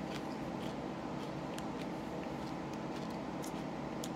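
A person chewing a jalapeño pepper with the mouth closed: faint, irregular wet clicks over a steady background hum.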